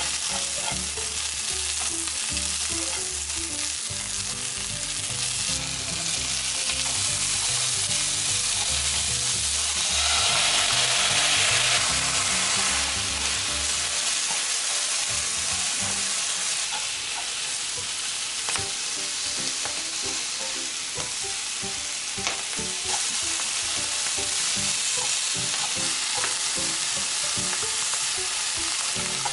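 Onion, garlic and canned whelk sizzling in oil in a frying pan as they are stir-fried with wooden chopsticks: a steady frying hiss that grows louder for a couple of seconds about ten seconds in.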